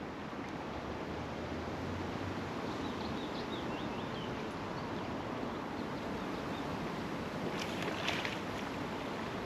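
Steady rush of flowing river water, with a few faint high chirps partway through.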